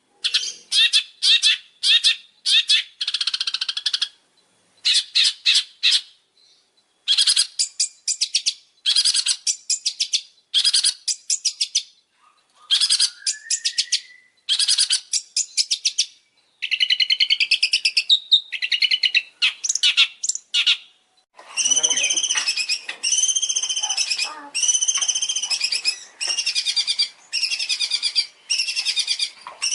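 Songbird song, played as a masteran training recording: bursts of rapid, high trilled notes with short pauses between them. About two-thirds of the way through it changes to a regular series of repeated arched whistled phrases over a scratchy chatter.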